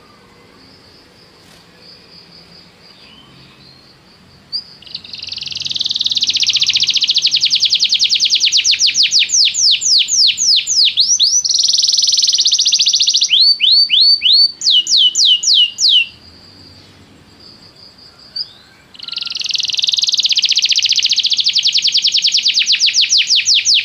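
Domestic canary singing: after a few faint seconds it breaks into long rolls of rapid repeated high notes, several a second, with a buzzy passage and a run of falling notes. It pauses for about three seconds, then takes up the rolls again.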